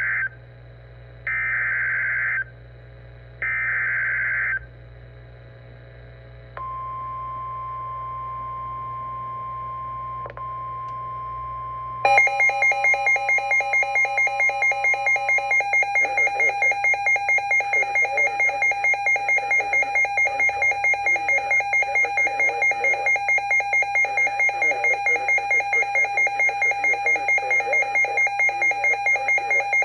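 NOAA Weather Radio alert signalling for a severe thunderstorm warning: three short buzzing data bursts of the SAME header, then the steady single-pitch 1050 Hz warning alarm tone. About twelve seconds in, a weather radio receiver's alarm starts beeping rapidly, about three beeps a second, overlapping the end of the tone and carrying on.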